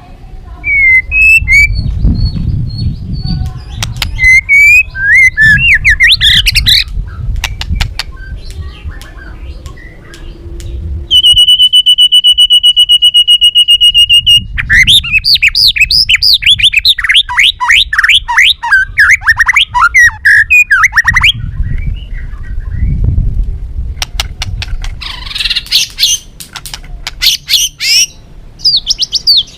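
White-rumped shama singing a varied song of clear whistled phrases and sharp clicks. Near the middle it holds a rapid, even trill for about three seconds, then follows with a fast run of falling notes.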